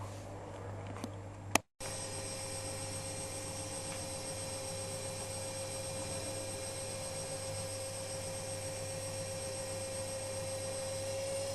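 Privileg Sensation 9415 washing machine running: a steady whine over a low hum, its pitch rising slightly near the end. A sharp click about one and a half seconds in.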